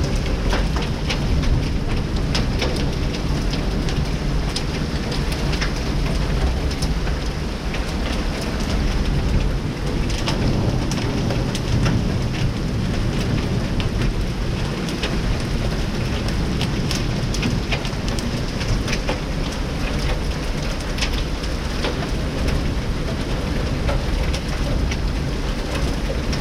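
Heavy downpour with large hail: a steady dense rush of rain, scattered with many sharp clicks of hailstones striking hard surfaces such as rain pipes.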